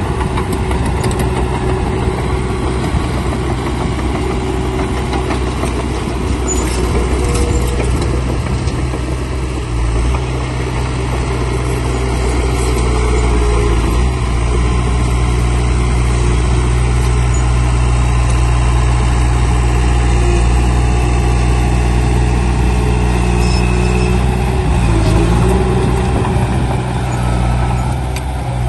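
Heavy diesel engine of earthmoving machinery running steadily with a deep, even hum, its pitch shifting slightly a few times as the load changes.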